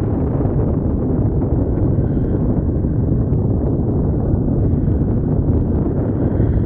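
Steady low rumble of the Boeing 737-8 MAX's CFM LEAP-1B jet engines, with wind buffeting the microphone.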